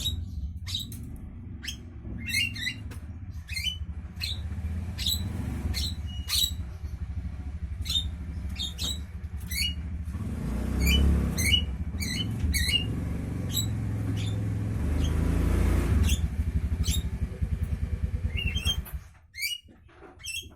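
Javan myna giving short, sharp calls over and over, over the low rumble of a motor engine. The engine swells twice and dies away about a second before the end, leaving the bird calls alone.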